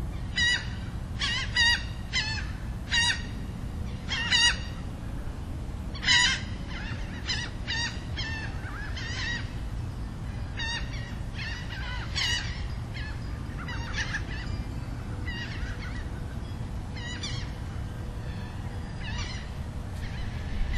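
Birds calling: a run of short, loud calls that sweep in pitch, coming every half-second to second at first and thinning out and growing fainter after about ten seconds, over a steady low background noise.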